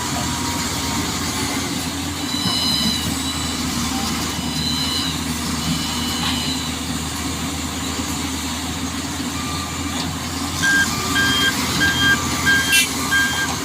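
Truck engine running steadily. About eleven seconds in a reversing alarm starts beeping rapidly, about three beeps a second, as the truck backs up. A few short high tones sound earlier.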